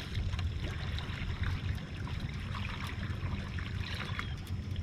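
Water sloshing and trickling against a slowly moving fishing boat, over a low steady rumble.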